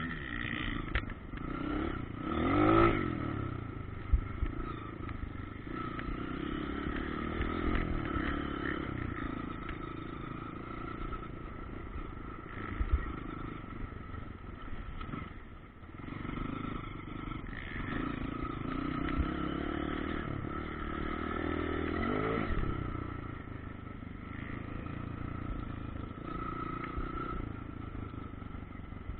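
Motocross bikes running on a dirt track, engines revving up and falling off as they pass, with clear swells about three seconds in and again near twenty-two seconds. A couple of sharp knocks stand out briefly.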